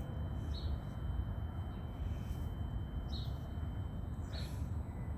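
Outdoor background: a few short, high bird chirps over a steady low rumble.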